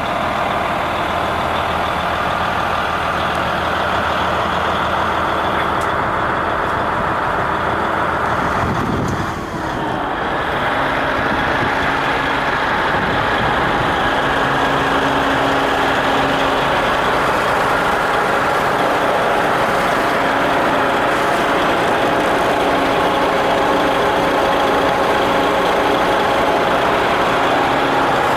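DAF CF85 truck's straight-six diesel engine running steadily. About nine seconds in the sound dips briefly with a falling sweep, then settles into a slightly louder, steady running note.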